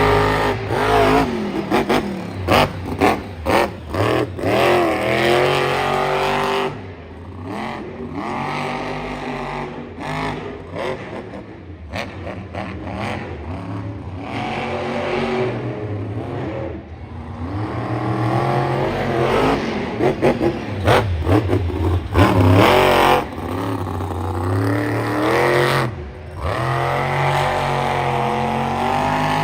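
Monster truck engine revving hard and repeatedly, its pitch rising and falling as the throttle is worked, with a few sudden drops when the throttle is cut.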